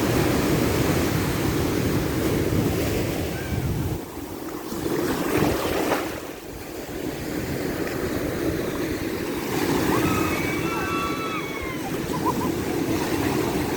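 Ocean surf washing and breaking steadily, with wind rumbling on the microphone in the first few seconds.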